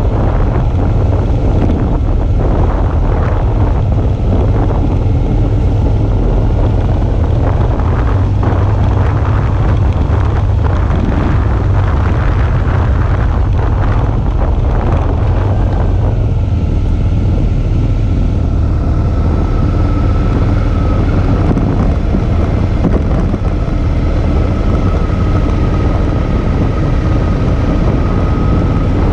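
Suzuki V-Strom 650's V-twin running on the move, mostly buried under heavy wind rumble on the mounted action camera's microphone. About halfway through, a faint steady whine comes in.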